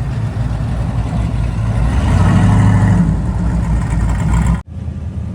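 Classic cars' engines rumbling as they drive past in a parade, one growing louder about two seconds in and easing off again. The sound breaks off abruptly near the end and the engine rumble resumes.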